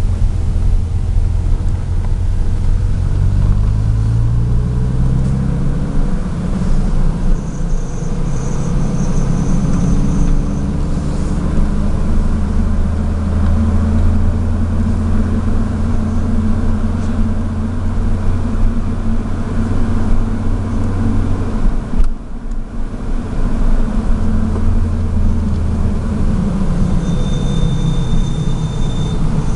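Hyundai Tiburon driving, its engine pitch rising as it accelerates over the first several seconds, then running steadily at cruise. A faint high whine comes in twice, in the car that has an unidentified noise the owner is trying to diagnose.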